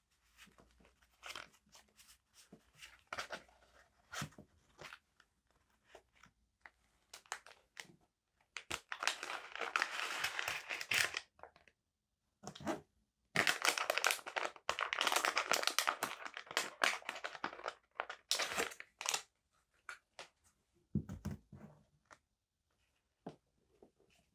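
Stationery packaging handled close to the microphone: scattered light taps and rustles, then two long stretches of crinkling and tearing, about three and four seconds long, and a low thud near the end.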